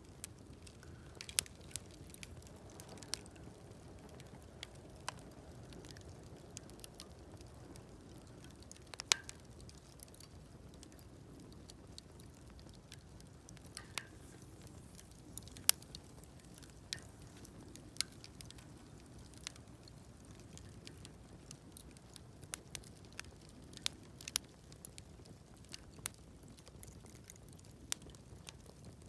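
Wood campfire crackling: scattered sharp pops and ticks at irregular moments over a low steady rush of burning, with a few louder snaps about a third and halfway through.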